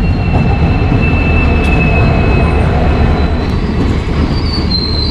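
An Indian Railways WDG4 diesel locomotive and its passenger coaches rolling past along the platform as the train pulls into the station: a steady, heavy rumble of engine and wheels. Over it runs a thin, high wheel squeal that sinks slowly in pitch, with another higher squeal near the end as the train brakes.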